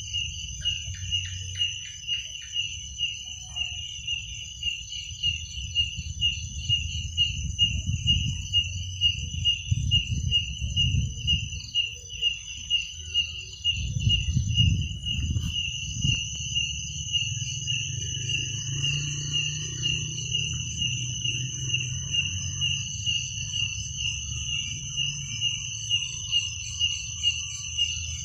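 Crickets chirping in a steady repeated rhythm, with a second insect's continuous high-pitched trill above them. Underneath runs a low rumble that swells between about eight and sixteen seconds in.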